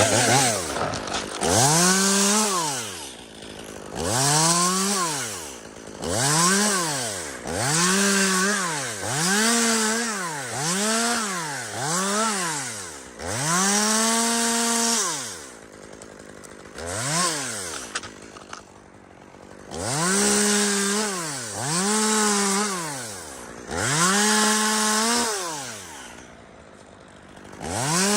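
A two-stroke chainsaw revved in about a dozen short bursts, each rising to full speed, holding briefly and dropping back to idle. This is typical of trimming limbs while removing a spruce.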